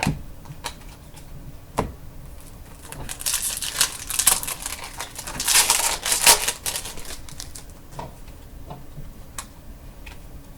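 Stiff chrome trading cards being handled: a few sharp clicks of cards snapping against each other, with a denser stretch of sliding and rustling between about three and seven seconds in.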